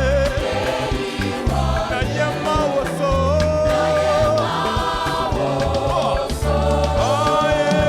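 Choir singing gospel music with band accompaniment and a steady bass line.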